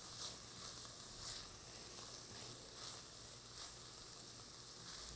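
Corn kernels sizzling faintly as they sauté in a frying pan, stirred with a silicone spatula, with soft scrapes about once a second.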